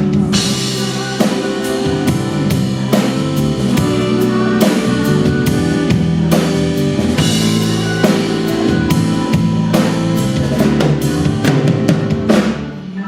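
Live piano-rock band playing an instrumental break with no singing, a drum kit beating steadily over sustained bass and keyboard chords. The music dips briefly near the end.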